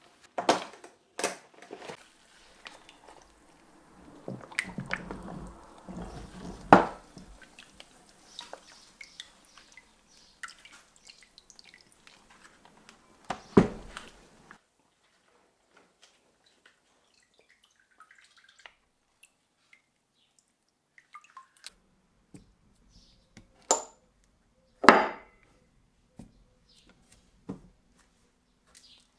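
Scattered sharp knocks and clinks from metal vise parts being handled and set down, with a stretch of busier handling noise about four to seven seconds in.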